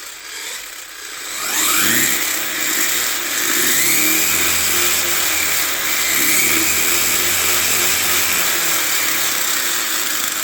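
Hobbypower 3650 3300KV brushless motor in a 1/14 scale RC monster truck, running on a 2S battery. It spins up with a steeply rising whine about a second and a half in, then holds at high speed with a steady high whine and drivetrain gear noise.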